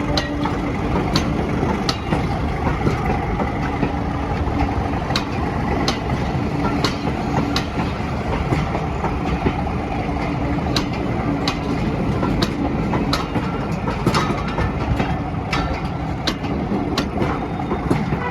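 Railway train running: a steady rumble with sharp clicks coming irregularly, about one or two a second.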